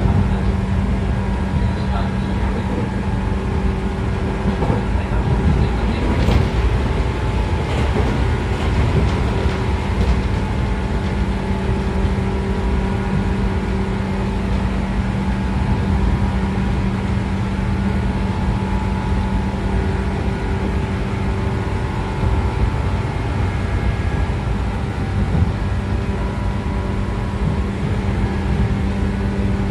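JR 113 series electric train running at steady speed, heard from inside a motor car: the MT54 DC traction motors and gears hum at a constant pitch over the rumble of the DT21B bogies on the rails, with a few brief clatters of wheels over rail joints.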